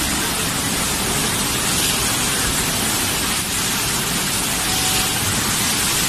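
Storm noise: a steady, even rush of heavy rain and strong wind, with no single event standing out.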